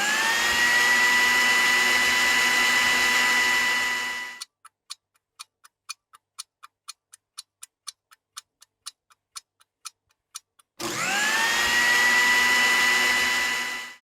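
A small electric motor spins up to a steady high whine, then cuts off sharply after about four seconds. A run of quick, even ticks follows, about four a second. Near the end the same motor whine starts again.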